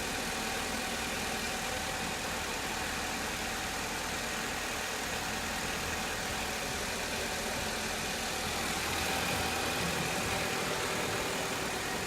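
Lada Largus engine idling steadily just after its first start in seven months, running smoothly "like clockwork".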